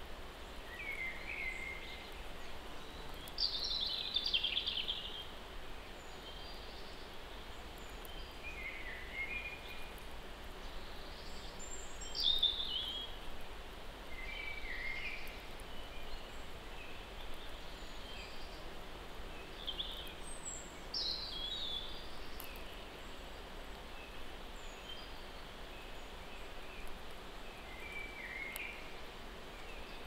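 Songbirds singing: short phrases every few seconds, several dropping in pitch, over a steady background hiss.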